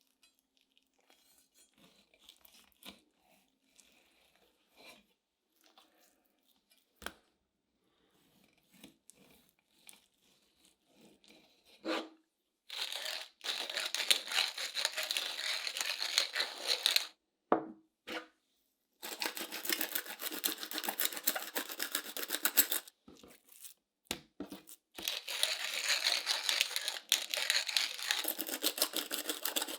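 Kitchen food-preparation sounds: soft clicks and handling noises at first, then three loud stretches of rough, tearing-like noise of a few seconds each, each stopping abruptly.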